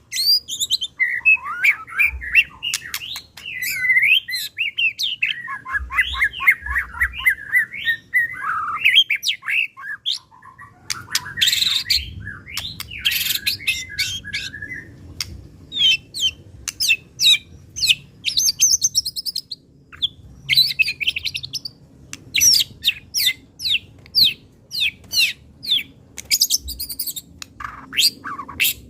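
White-rumped shama (murai batu) singing a long, varied song: warbling phrases for the first ten seconds or so, then a run of sharp, rapid, high notes in the agitated 'pastol' style.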